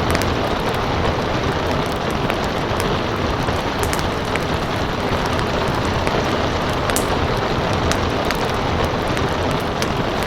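Steady rain hiss blended with a fireplace's wood fire crackling, with sharp pops scattered irregularly throughout.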